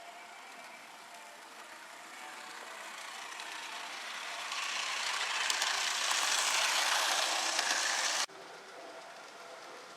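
Gauge 1 model train running along its track and growing louder as it comes closer. The noise cuts off abruptly about eight seconds in.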